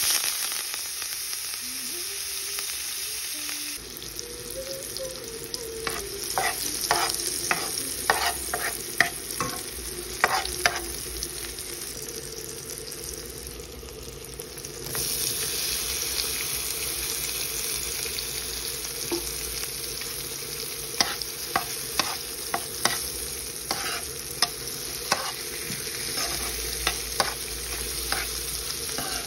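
Chopped onion, peppers, scallion and thyme sizzling in hot oil in a non-stick pan, with clicks and scrapes of a metal spoon stirring. About fifteen seconds in the sizzle grows louder as sliced sausage goes into the pan.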